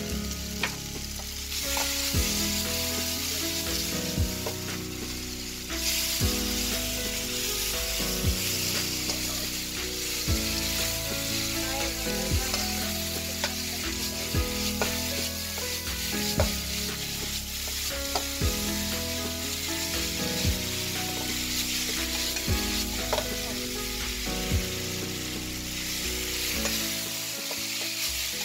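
Udon noodles and chicken sizzling as they are stir-fried in a nonstick frying pan, stirred and tossed with a spatula, a steady frying hiss throughout. Background music with a slow beat, about one thump every two seconds, plays underneath.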